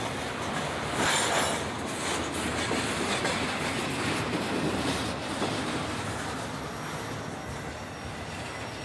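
The tail end of a long intermodal freight train of double-stack container cars rolling past on steel wheels, louder for a moment about a second in, then fading as the last car goes by.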